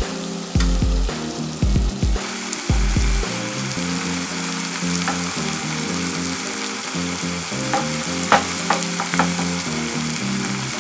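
Chopped peppers, celery and garlic frying in olive oil in a stainless steel stockpot: a steady sizzle that grows louder about two seconds in, with a few sharp clicks near the end.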